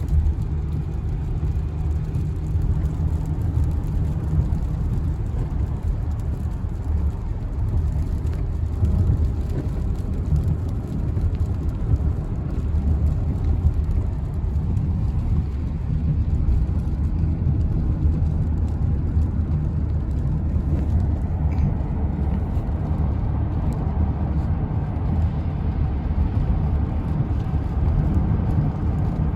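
Steady low rumble of a car driving on the road: tyre and engine noise heard from inside the cabin.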